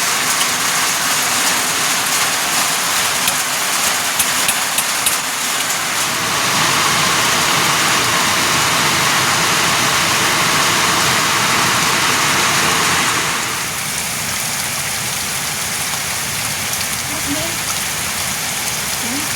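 Steady rain falling, with a few sharp drop impacts in the first six seconds; the rain grows louder about six seconds in and eases back about seven seconds later.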